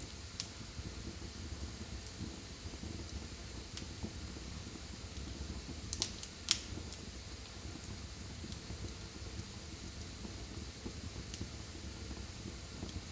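Wood fire burning in a fireplace: a steady low rumble of flames with a few sharp crackles and pops. The loudest pops come in a pair about six seconds in.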